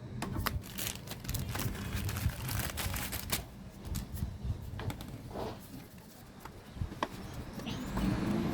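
Irregular sharp clicks and light knocks over a low background rumble.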